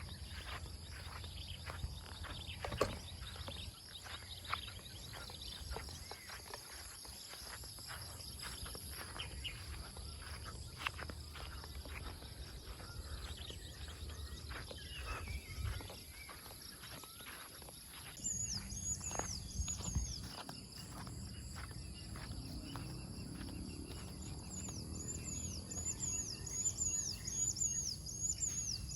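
Outdoor morning ambience: a steady high insect drone with scattered light clicks, and a bird calling in runs of quick repeated chirps in the second half.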